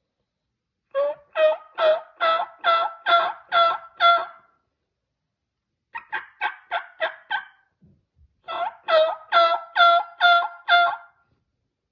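Turkey yelping: three series of evenly spaced two-pitched yelp notes, the middle series shorter and quicker. A hunting call sequence meant to draw turkeys in.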